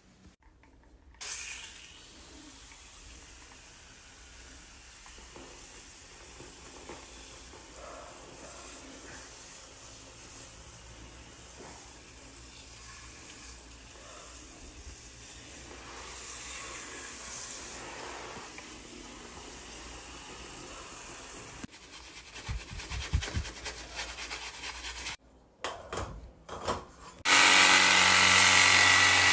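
Steady hiss of water spraying as an air conditioner unit is washed during servicing, with some clattering late on. Near the end a much louder motor-driven machine starts up and runs with a steady hum.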